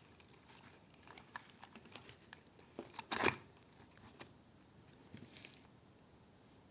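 Faint rustling, crinkling and small clicks of insulated electrical wire being handled and wound tightly around joined cable ends, with a louder crackling rustle about three seconds in.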